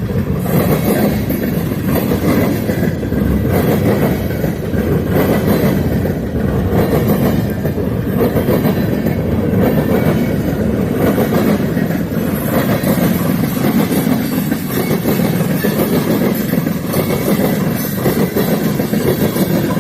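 Freight train cars rolling past at a steady, loud level.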